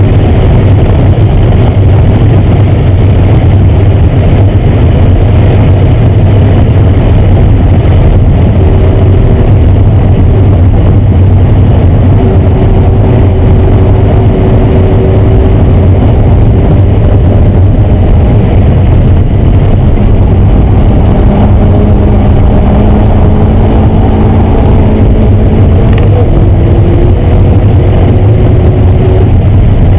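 Mazda Miata race car's four-cylinder engine running hard at high revs, heard inside the cabin, with a loud steady drone and heavy road and wind noise. The engine note shifts slightly in pitch as the revs vary through the corners.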